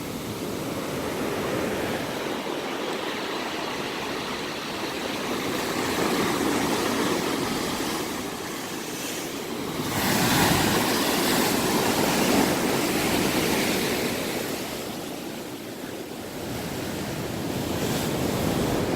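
Ocean waves breaking and washing onto the shore, the surf rising and falling in surges, the biggest about halfway through.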